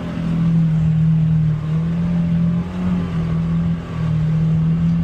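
Polaris Xpedition UTV engine under way, running at a fairly steady speed and easing off briefly twice, about one and a half seconds in and near the end.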